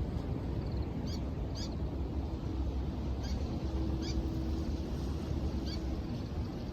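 Surf and wind rumbling along a seashore, with short high bird chirps about five times and a faint steady drone through the middle.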